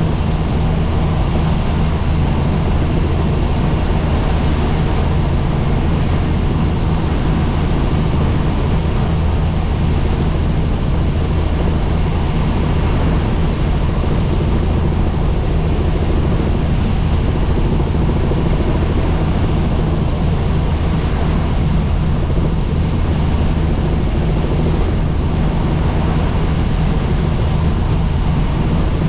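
Helicopter's rotor and engine running, a steady, loud drone with a strong low hum and an even rushing noise above it.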